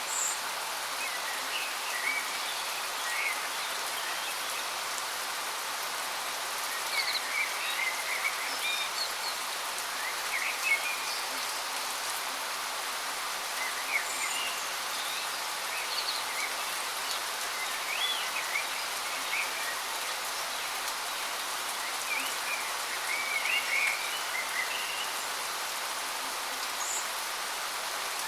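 Waterfall making a steady, high hiss, with small birds chirping in short, scattered phrases over it.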